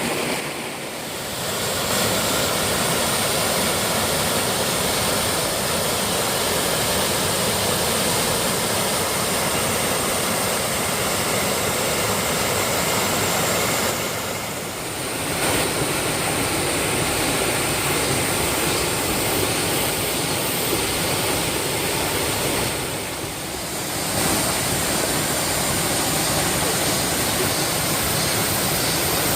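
Steady rushing roar of a waterfall, dipping briefly three times.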